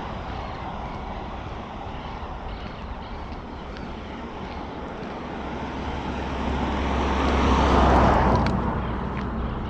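A motor vehicle driving past, its engine hum and road noise rising to a peak about eight seconds in and then fading.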